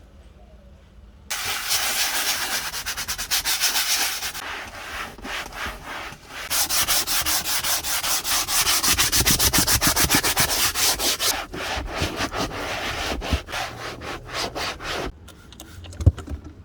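Stiff brush scrubbing dirt out of a car's interior surfaces in rapid back-and-forth strokes, agitating embedded grime. It starts about a second in and stops shortly before a single sharp knock near the end.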